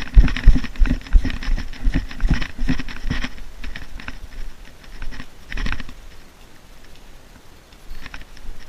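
Quick footsteps of a player moving up, about three steps a second for the first three seconds, then slowing to a single step and going quieter.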